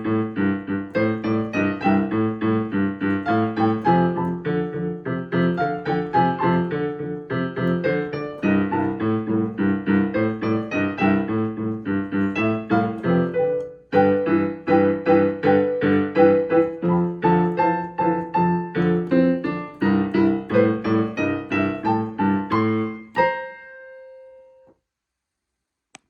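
Piano played in a bouncy boogie-woogie rhythm, a repeating bass figure under the right-hand melody, with a brief break about fourteen seconds in. About twenty-three seconds in, the piece ends on a final chord that rings out and fades away.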